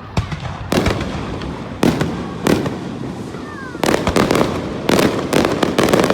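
Aerial fireworks bursting: a run of loud bangs at uneven intervals, some coming in quick clusters, each followed by a rumbling echo, with a faint falling whistle in the middle.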